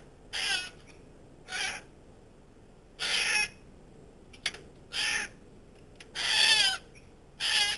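Short, harsh bird calls repeated every second or so, about six of them; the longest and loudest comes about six and a half seconds in. There is a brief click about four and a half seconds in.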